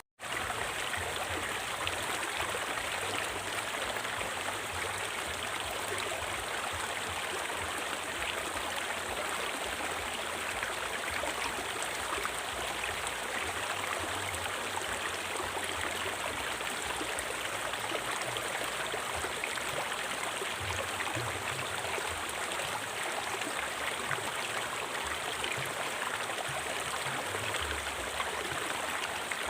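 River water flowing steadily, an even rushing of water over stones. Right at the start it cuts out for a split second and resumes.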